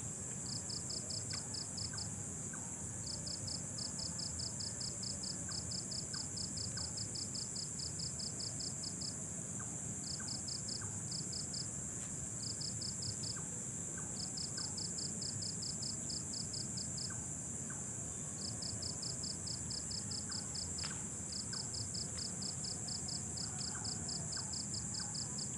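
Night insect chorus: a steady high-pitched trill, with a nearer insect chirping in rapid pulses, about six a second, in bouts of a few seconds broken by short pauses. Under it is a low, steady background rumble.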